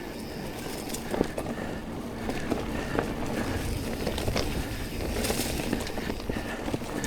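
Mountain bike rolling along a dirt trail: steady tyre and ride noise with several sharp knocks over bumps, the strongest about a second in and again near the three-second mark.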